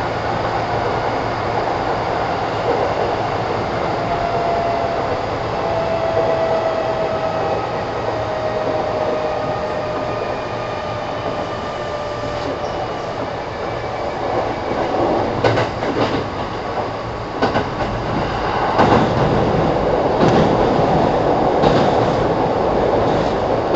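Kintetsu 1000 series electric train running, heard from inside the car: steady rumble of wheels on rail with a thin whine that slowly falls in pitch. Over the second half the wheels knock and clack over rail joints.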